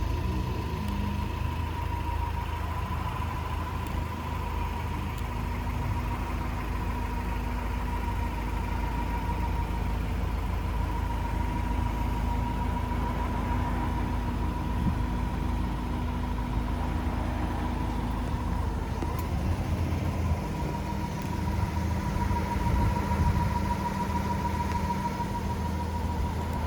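Honda Torneo SiR's four-cylinder engine idling steadily through an aftermarket muffler, with a faint high steady whine over the engine note.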